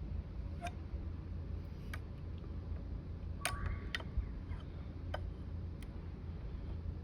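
Small metal clicks and taps from measuring tools being handled while a bore gauge is set up, about seven separate ticks over a steady low hum.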